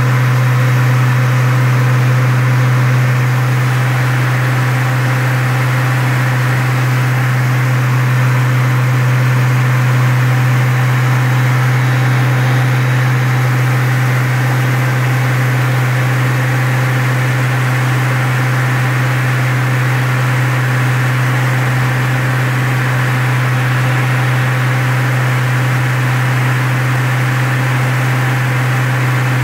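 Car engine running at a steady, unchanging speed during the run-in of its new 265 camshaft, with a strong low hum held at one pitch throughout.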